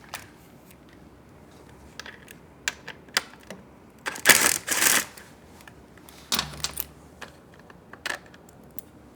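Hand tools and small metal parts clicking and clinking as a cover's bolts and spacers are handled. A louder scraping rustle comes about four seconds in, and a shorter one about six seconds in.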